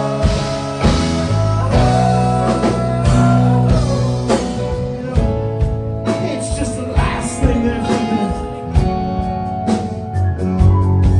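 Rock band playing an instrumental passage: a lead line with bending, gliding notes over sustained bass notes and regular drum hits.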